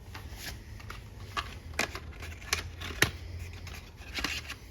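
Short, scattered clicks and crinkling rustles of a new transmission shaft seal and its packaging being handled, about six separate sounds with the sharpest click about three seconds in.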